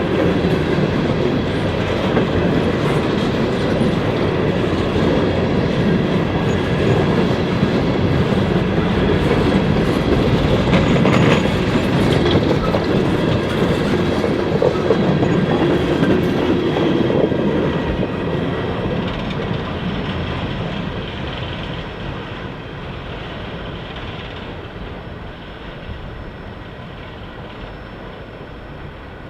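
A train rolling past, its cars' wheels clacking over the rail joints with some faint squeal. The sound fades steadily over the last ten seconds or so as the train moves away.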